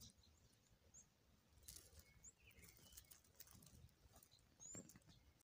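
Near silence with a few faint, short bird chirps scattered through it and some soft clicks; the sound cuts out briefly near the end.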